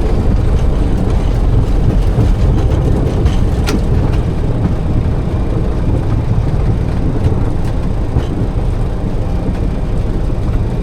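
Cockpit noise of a Boeing 737-800 rolling out on the runway just after landing, with speed brakes up and reverse thrust selected: a loud, steady low rumble from the engines and the wheels on the runway, easing off slightly as the aircraft slows. A single sharp click about four seconds in.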